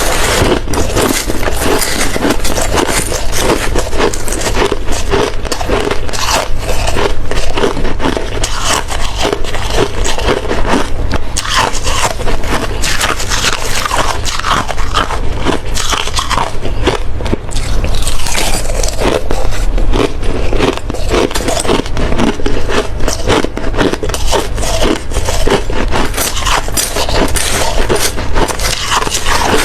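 A person biting and chewing hard ice, close to the microphone: a dense, continuous run of sharp cracks and crunches.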